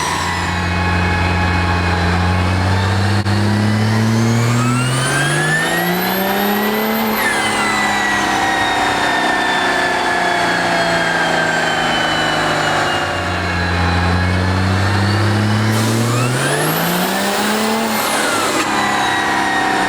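Vehicle engine revving up under load twice, each time climbing steadily for about four seconds and then dropping off sharply, with a high whistle rising and falling along with it.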